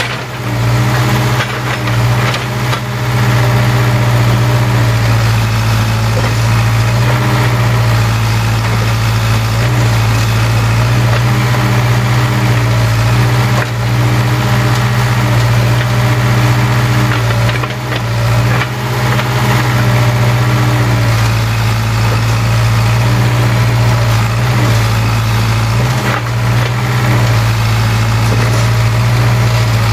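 Case 580K backhoe's diesel engine running steadily, its pitch shifting slightly up and down at times.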